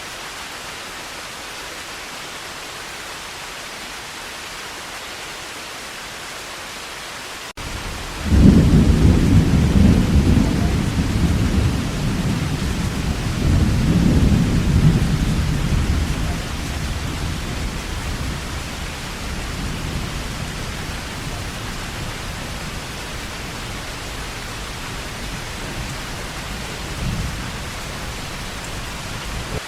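Heavy rain falling in a steady hiss. About eight seconds in, a long low rumble of thunder breaks in, swells again a few seconds later and slowly dies away, with a faint further roll near the end.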